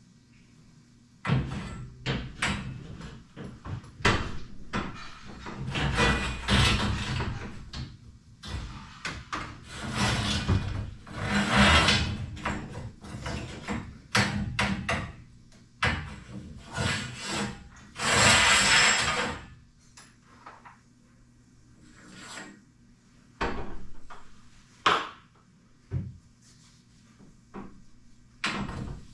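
Hand work on garage door spring hardware: irregular knocks and scraping or rubbing noises, the longest lasting about a second, coming in uneven bursts.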